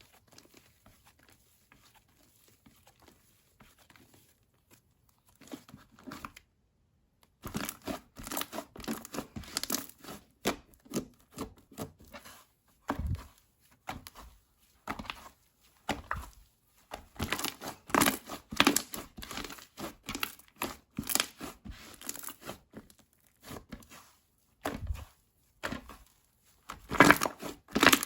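Slime being pressed, stretched and folded by hand, making quick crackling, popping and tearing sounds in rapid clusters. It is faint for about the first seven seconds, then the handling gets louder and busier.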